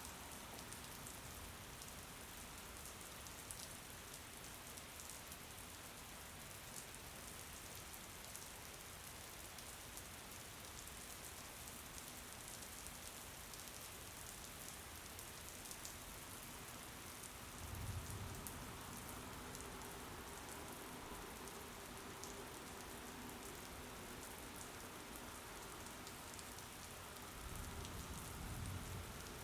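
Steady rain falling: an even hiss with fine, faint patter of drops. Two brief low rumbles rise out of it, about 18 seconds in and again near the end.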